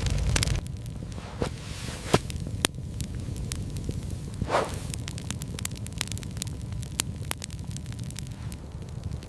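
Wood fire crackling: irregular sharp pops and ticks over a low, steady rumble. There is a short, louder rush about halfway through.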